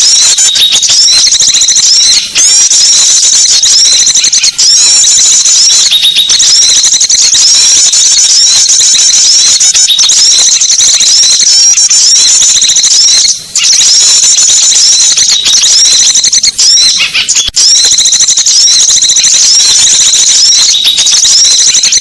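Small-bird lure call: a loud, dense, unbroken twittering of high-pitched chirps repeating over and over, with a few very short breaks. It is the kind of call played to draw small wild birds in for trapping.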